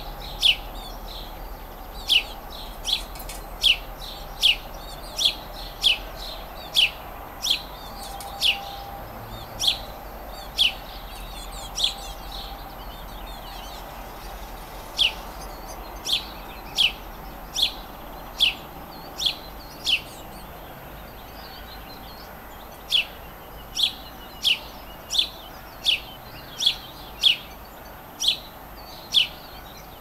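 A songbird repeating one short, sharp, down-slurred chirp about once a second, in runs broken by pauses of a few seconds. A faint steady hum lies underneath.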